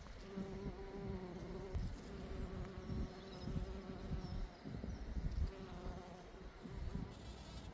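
A bee buzzing while it forages for pollen in a white poppy, a steady hum that breaks off and starts again a few times, over a low uneven rumble.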